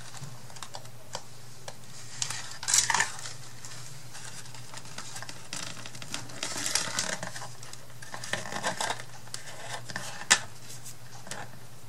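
Paper being handled and pressed down while gluing it onto a wooden box: scattered rustles and small clicks and taps, with a sharper tap about ten seconds in. A steady low hum runs underneath.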